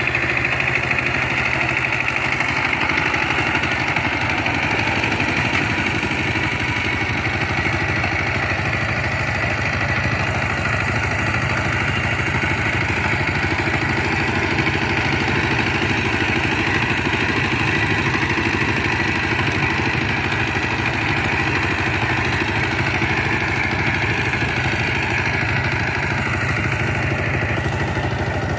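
Power tiller's diesel engine running steadily at a constant speed.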